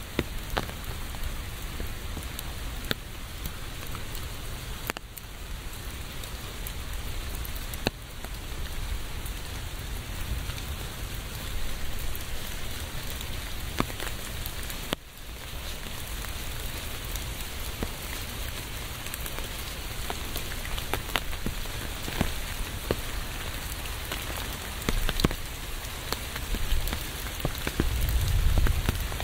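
Steady rain falling on a hard surface, with many individual drops ticking close by. The rain briefly drops away about halfway through, and a low rumble swells near the end.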